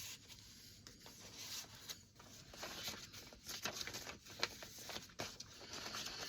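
Soft rustling and small taps of paper pages and tags in a handmade journal being turned and handled, busier in the second half.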